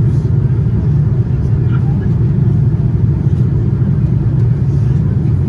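Steady low rumble of a Boeing 787-9's cabin noise, its GEnx engines and airflow heard from inside the cabin, unchanging throughout.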